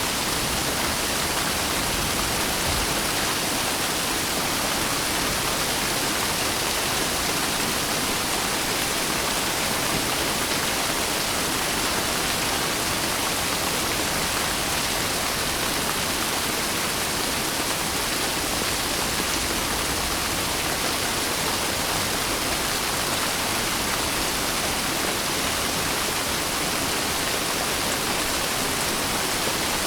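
Steady rain falling, a dense even hiss with no single drops, thunder or change in strength.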